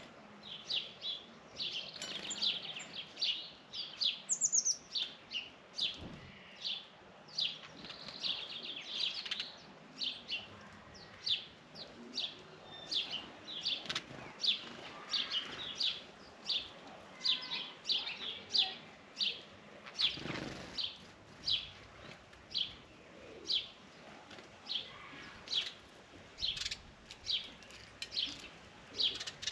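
Birds chirping: a steady run of short, high chirps, about one or two a second, with a brief rustle about six seconds in and again around twenty seconds.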